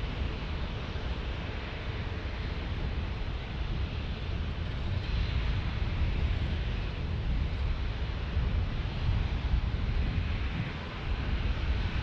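Airbus A321neo airliner on final approach, a steady rushing jet noise that grows a little louder partway through, mixed with wind buffeting the microphone.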